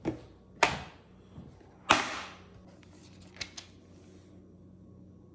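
A Lego box being handled and opened: three sharp clicks and knocks in the first two seconds, the loudest about two seconds in with a brief rattle after it, then two light taps.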